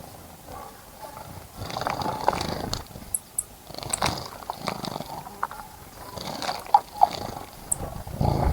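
Wild birds bathing in a bird bath, splashing and fluttering their wings in the water in about four rough bursts, with a few short, high chirps between them.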